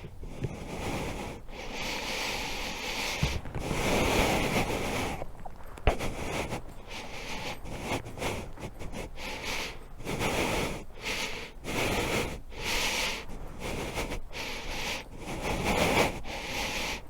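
Wind buffeting the microphone in uneven gusts, cut by many brief dropouts.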